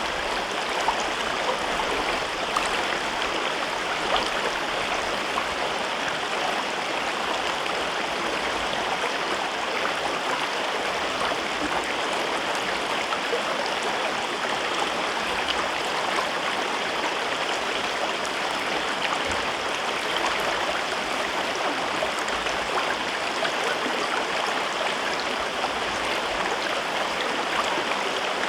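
A river flowing through a rocky gorge: steady rushing and babbling of water over rocks.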